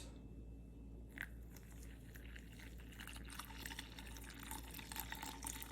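Cold water being poured slowly onto ground coffee in the fine stainless steel mesh filter of a glass cold brew bottle: faint pouring and dripping that picks up about a second in.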